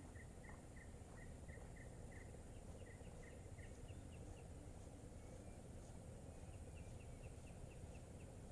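Faint repeated chirping from a small animal over a low steady background hiss. There is a quick series of short, even chirps at one pitch, about three a second, that stops partway through, then later a shorter run of slightly higher chirps.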